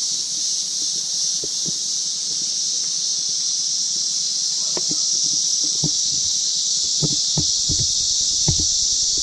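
Loud, steady, high-pitched drone of a cicada chorus in tropical rainforest, with a few soft low knocks in the second half.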